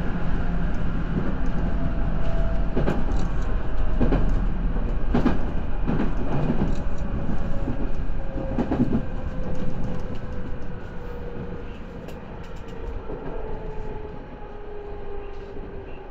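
JR 211 series electric train running, heard on board: wheels clack over rail joints several times in the first half, over a steady rumble and a motor whine that slowly falls in pitch. The running noise eases off a little about ten seconds in.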